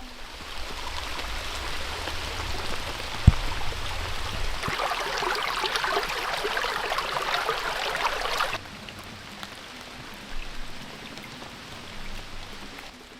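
Steady hiss of water with a single sharp knock about three seconds in. From about the middle the hiss turns denser and crackling, then cuts off abruptly, leaving a softer, quieter hiss.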